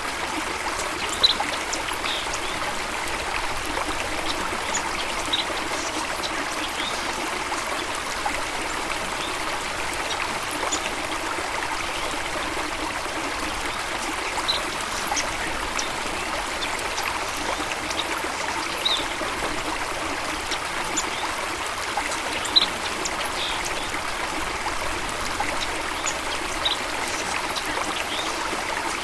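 Flowing water running and trickling steadily, with brief high sounds scattered through it now and then.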